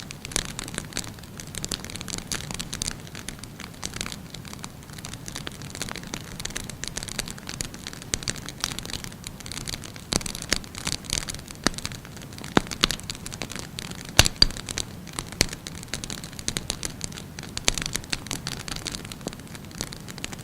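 Burning wood fire crackling steadily, with frequent irregular sharp pops over a soft hiss; one pop about fourteen seconds in is the loudest.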